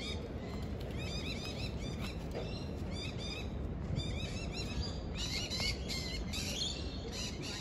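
Birds chirping: rapid runs of short arched chirps, thickening into a denser, louder chorus from about five seconds in, over a steady low rumble.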